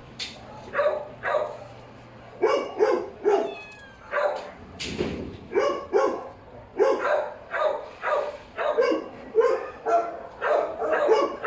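A dog barking repeatedly, about twenty short barks in quick runs of two or three.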